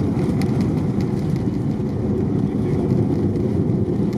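Steady low rumble of a Boeing 787-9 airliner heard from inside its cabin, even in level throughout.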